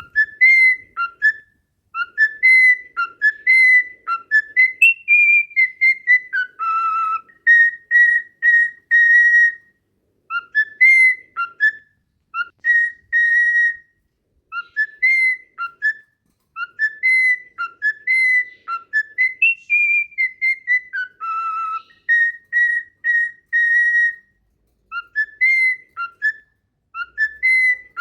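A whistled tune of clear, pure notes with quick upward slides and held notes. The same phrase repeats again and again with short gaps, the kind of looped whistle tune played for cockatiels to learn.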